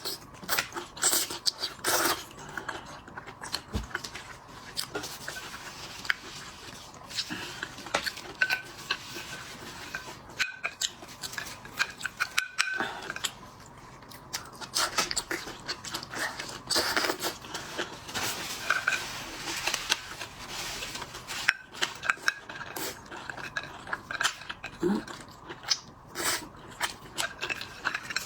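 Close-miked eating of shellfish: wet chewing and sucking with a dense run of small clicks, crackles and taps from shells being cracked and picked apart.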